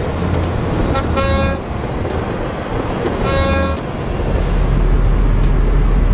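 A heavy truck's horn sounds twice, two short blasts about two seconds apart, over a low engine rumble that grows louder near the end.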